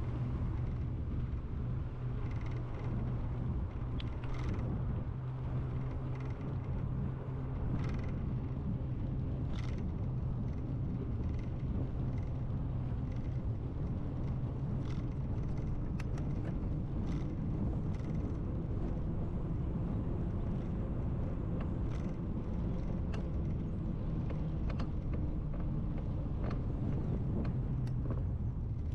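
Steady rumble of a bicycle being ridden on pavement, with scattered sharp clicks and ticks throughout.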